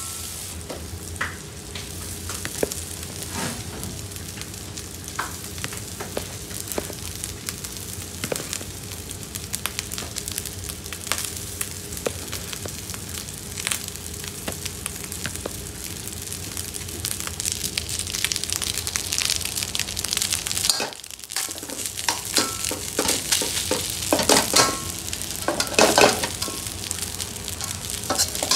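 Chicken tikka and rice sizzling in a hot black wok while a metal spatula stirs and scrapes against the pan. The sound breaks off briefly about two-thirds of the way through, and the scraping strokes are louder near the end.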